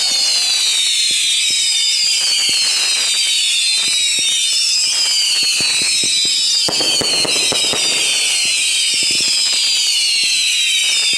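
Consumer fireworks going off in a dense barrage: many overlapping high whistles falling in pitch, with crackling pops throughout.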